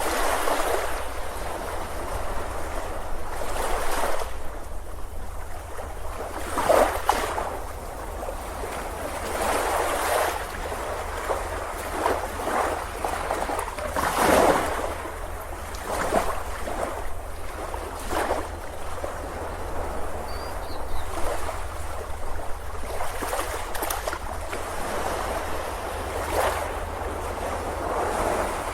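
Ocean waves breaking on a beach: a continuous surf wash with a wave surging up every few seconds, under a steady low rumble.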